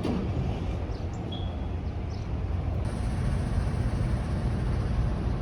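Steady low rumble of a vehicle in motion, with a faint high-pitched whine joining about three seconds in.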